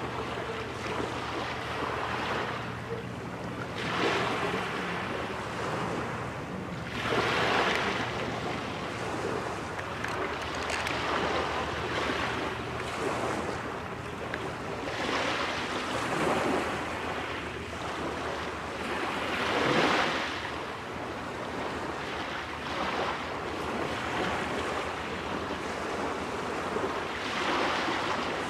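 Small waves washing onto the shore, swelling and falling back every few seconds, mixed with wind on the microphone. A faint low steady hum lies underneath in the first few seconds.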